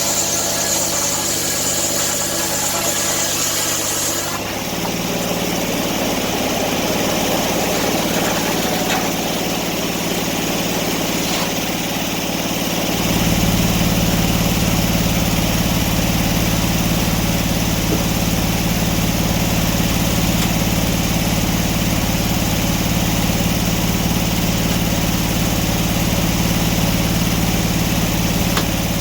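Engine running steadily. Its note changes about four seconds in, and about thirteen seconds in it grows louder with a deeper hum.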